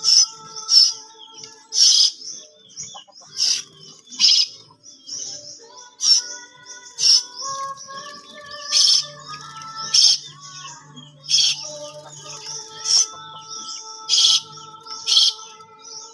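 Asian glossy starling giving sharp, high chirps over and over, about one a second, over background music with long held notes.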